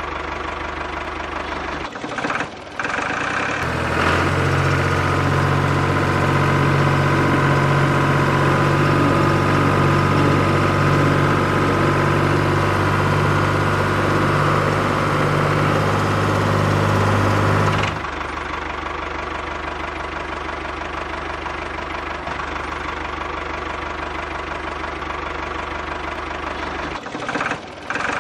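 Steady engine-like mechanical running. From about four seconds in until about eighteen seconds a louder, heavier layer with a low hum comes in, then drops away suddenly, leaving the lighter running sound.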